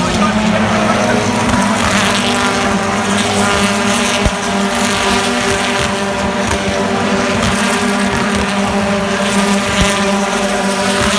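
Touring car engines running during the race, heard as a steady, loud pitched drone that holds almost the same pitch throughout.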